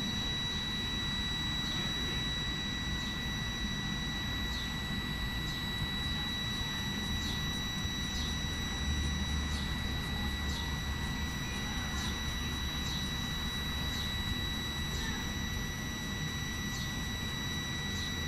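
Passenger train standing at the platform: a steady high electrical whine with overtones over a low rumble, with a faint short chirp repeating about once a second.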